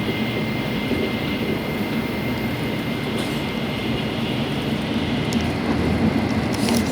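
Tokaido Shinkansen running noise heard inside the passenger car: a steady rushing roar with a low hum and a faint, constant high-pitched tone.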